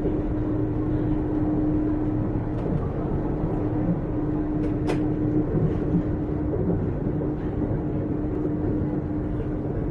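A JR 455 series express-type electric multiple unit running along the line, heard from on board: a steady rumble of wheels and bogies with a constant hum. A brief sharp sound comes about five seconds in.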